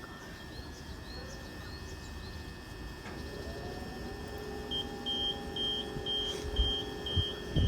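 Birds chirping, then a Class 465 electric train's whine rises and levels off about three seconds in. From about halfway, a high beep repeats about twice a second: the train's door warning.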